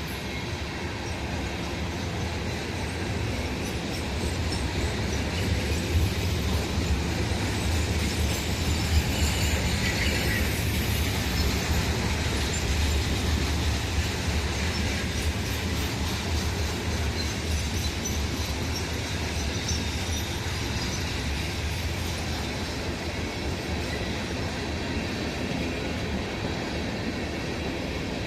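Norfolk Southern freight train rolling past, a steady rumble of railcars with wheels clacking over rail joints and some wheel squeal, swelling a little partway through.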